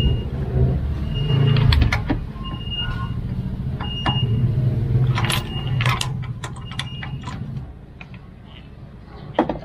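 A motor vehicle engine running steadily with a low rumble that drops away about eight seconds in, with scattered sharp metallic clicks and short high-pitched tones over it.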